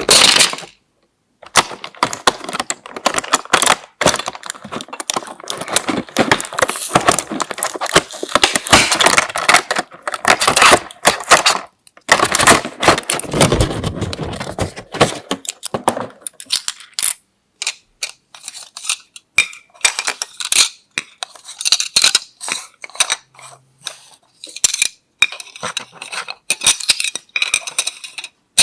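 Small plastic toy tea-set pieces and their packaging being handled: many sharp clicks and light clinks, with a stretch of denser rustling in the first half.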